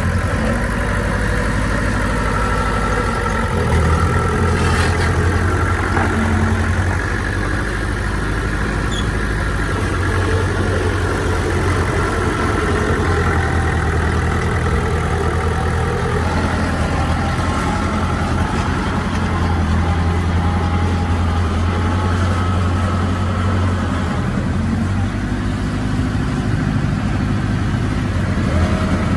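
Diesel engine of heavy earthmoving machinery running steadily, with a deep hum that rises and eases slightly as the load changes.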